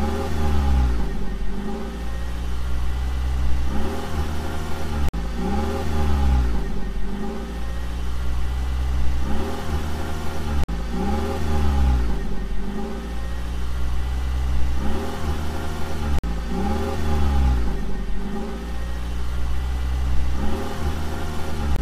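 Car engine revving sound effect played on a loop: a steady low engine drone whose pitch rises and falls every two to three seconds, the same stretch repeating every five or six seconds.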